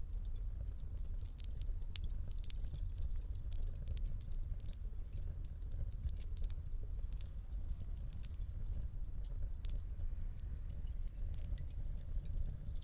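Wood fire crackling in a fireplace: many irregular sharp pops and snaps, several a second, over a steady low rumble.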